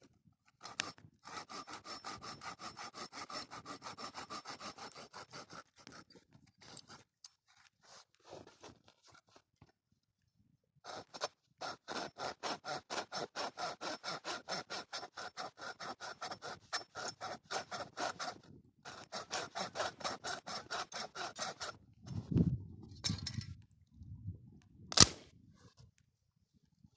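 Hand saw cutting wood in runs of quick, even strokes, about three a second, stopping and starting twice. Near the end come a couple of dull thuds, then one sharp, loud crack.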